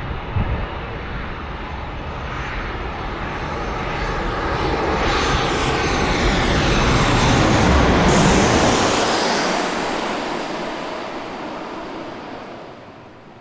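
Jet airliner, a Boeing 737 MAX 8, passing close by as it comes in to land. The engine noise swells to a peak and fades away, and a high whine drops in pitch as the plane goes past.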